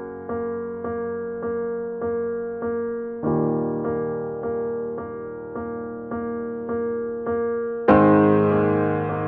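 Background piano music: evenly paced notes, a little under two a second, with a fuller, louder chord near the end.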